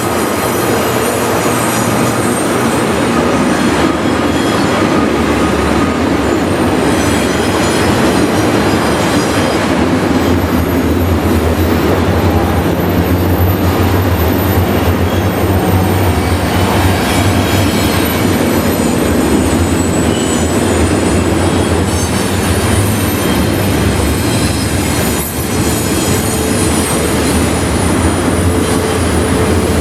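Freight train cars rolling steadily past at close range, with high-pitched wheel squeal running over the rumble of the wheels on the rails.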